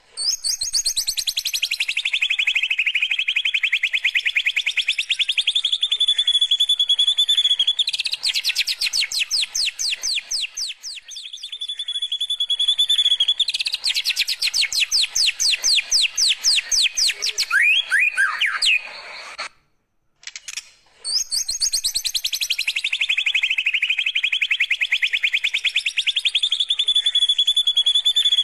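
White-rumped shama singing canary-style trills: rapid rattling trills that slide down in pitch into a steady held whistle, then fast buzzing rolls. The song breaks off briefly about twenty seconds in, and the same phrase sequence starts again.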